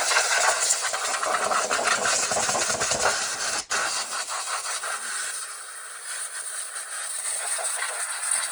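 Air hissing steadily and loudly, with a rumble underneath for the first few seconds and a single click about three and a half seconds in.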